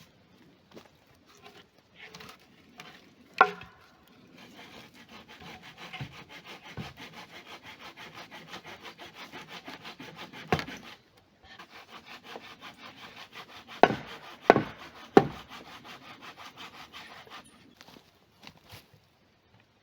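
A hand saw cutting through wood in steady back-and-forth strokes, in two long bouts, with a few sharp knocks of wood between and within them.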